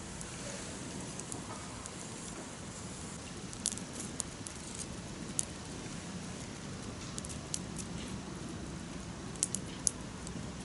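Campfire burning: wood crackling, with scattered sharp pops over a steady low rustle.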